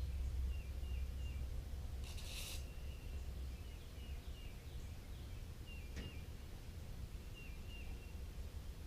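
A bird chirping repeatedly over a steady low rumble, with a short rustling scrape about two seconds in and a single sharp click about six seconds in.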